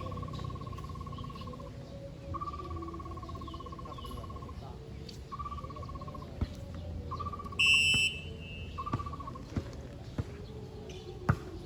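A whistle blows once, briefly, about two-thirds of the way in, and a ball is hit sharply a couple of times, one near the end. Behind them a high warbling call repeats in long drawn-out notes.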